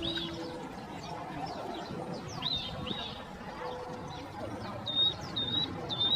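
Birds chirping and calling, with scattered short high calls and then a quick run of short, repeated high notes near the end.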